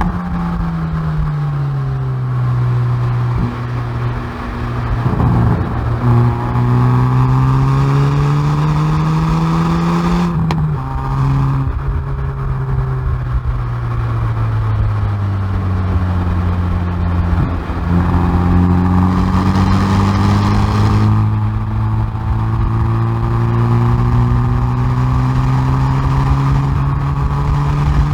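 Hyundai i30N Performance's 2.0-litre turbocharged four-cylinder exhaust, heard from the rear bumper under track driving. The engine pitch falls at first, then climbs steadily under acceleration. It drops sharply on an upshift about ten seconds in, with a brief burst of noise, then climbs slowly again for the rest of the time.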